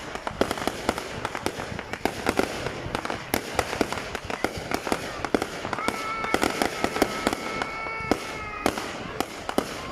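Fireworks going off in rapid succession, a dense run of sharp cracks and pops. A steady high tone sounds from about six seconds in and stops suddenly about two and a half seconds later.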